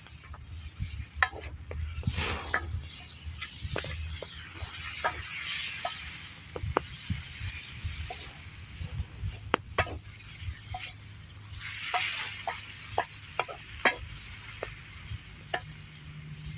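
Spiced meat frying and sizzling in a pan while being stirred, with a utensil clicking and scraping against the pan many times. The sizzle swells twice, about two seconds in and again about twelve seconds in.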